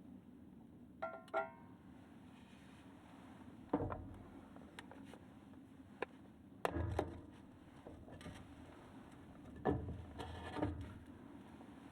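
Occasional knocks and thumps, about five of them spread through the stretch, with a brief ringing clink about a second in.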